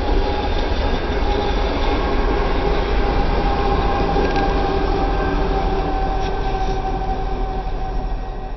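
CN freight train passing close by: a steady rumble of rolling cars and a locomotive, with a steady whine running over it. It fades away near the end.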